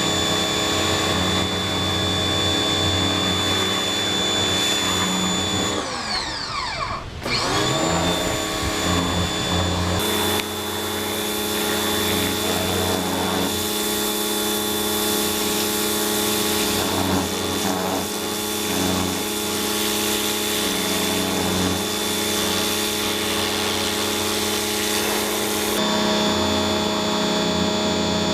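Greenworks 1600 psi electric pressure washer running with a steady motor whine. About six seconds in, the motor drops in pitch and spins back up. For much of the rest the hiss of the water spray is stronger.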